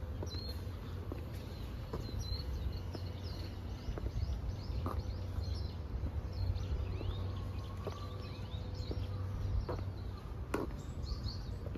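Small birds chirping, many short quick calls one after another, over a steady low rumble, with a few soft taps.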